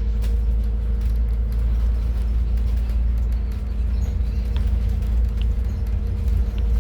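Interior running noise of a Scania N280UD CNG double-decker bus heard from the top deck: a steady low drone of the engine and road with a constant hum, and a few light ticks and rattles from the body.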